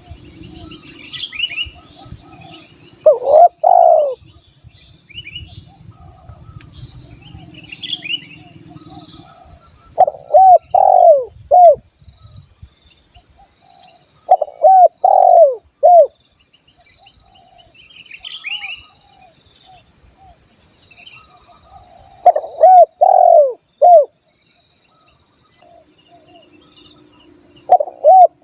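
Spotted dove cooing: five phrases of two to four short notes, coming every four to eight seconds. Under them runs a steady high insect hum with faint chirps of small birds.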